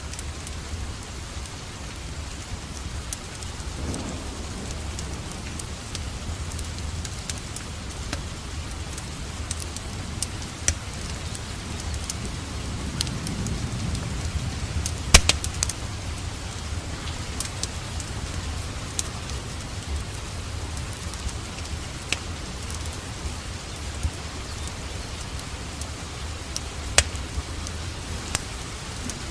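Steady rain, mixed with a fireplace fire crackling: sharp pops every few seconds, the loudest about halfway through.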